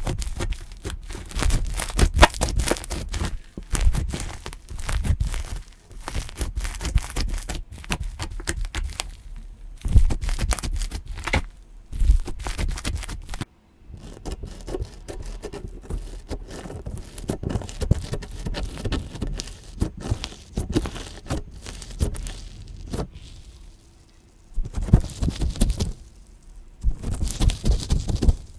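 Hands squeezing, stretching and poking slime, with many small irregular crackles, clicks and sticky popping sounds. There is a brief sudden break about halfway through.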